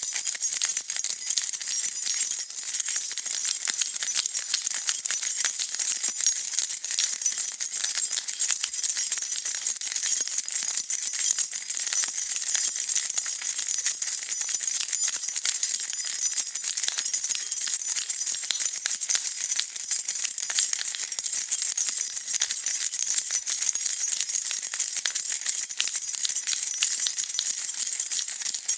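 A bunch of metal keys shaken continuously: a steady, dense, high-pitched jingling of many small clinks with no break.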